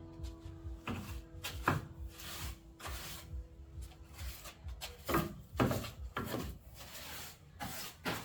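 Irregular scraping and rubbing strokes, about a dozen, with held music notes dying away over the first few seconds.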